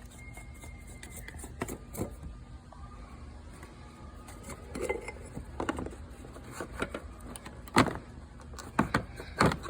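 Scattered clicks and knocks of tools and parts being handled during an oil change, the loudest two near the end, over a steady low hum.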